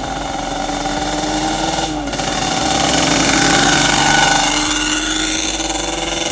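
Dirt bike engine accelerating hard at full throttle, its pitch climbing, dropping with a gear shift about two seconds in, then climbing again; it gets louder up to about four seconds in and fades a little near the end.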